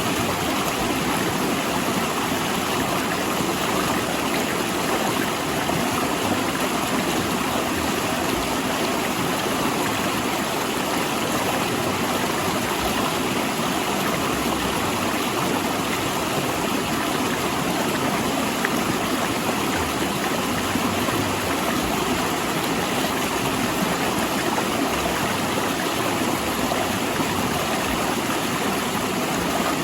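River water rushing steadily over and between large rocks, a constant even rush.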